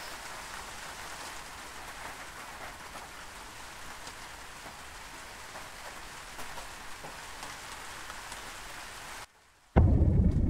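Steady rain, an even hiss with scattered patters, which cuts off suddenly near the end; after half a second of silence a loud, deep rumble breaks in.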